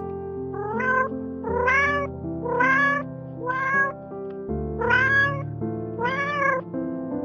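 A cat meowing six times, about once a second, each meow rising in pitch, over background music.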